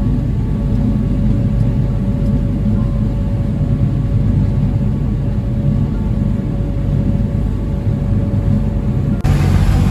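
Small ferry's engine running steadily under way, a low drone with a faint steady whine above it. About nine seconds in it cuts abruptly to a louder, rougher noise.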